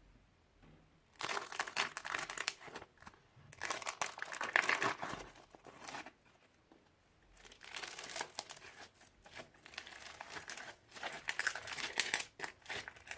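Old slime being mixed and squished, giving runs of fine crackling and popping clicks in three stretches, with a quiet pause of about a second just past the middle.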